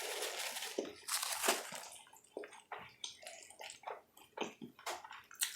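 Close-up wet eating sounds: a wet slurp for about the first second, then scattered wet clicks and smacks of chewing.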